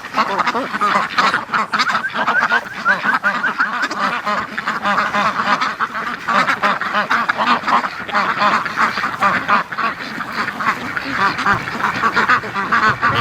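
A large flock of white Pekin ducks quacking loudly, many calls overlapping without a break.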